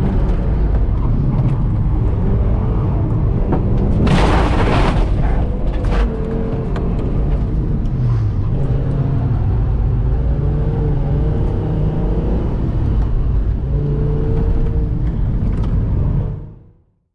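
A 2001 Fiat Marea 2.0 20V's five-cylinder engine running hard under load, its pitch rising and falling as it revs. A burst of loud rushing noise about four seconds in, and the sound fades out quickly near the end.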